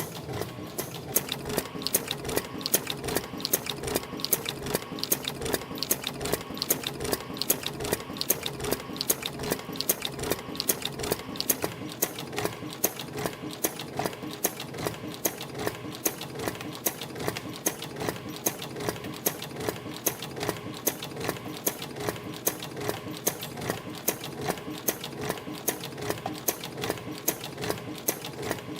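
CNC spring-making machine running in production, coiling 0.4 mm wire into extension springs with English-style hooks at about 80 a minute. A steady, rapid, even clicking rhythm sits over a continuous mechanical hum.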